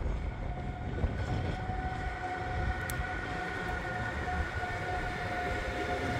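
PKP Cargo electric locomotive passing close with a train of open freight wagons: a low rumble of wheels on the rails, joined about one and a half seconds in by a steady high whine, with wind buffeting the microphone.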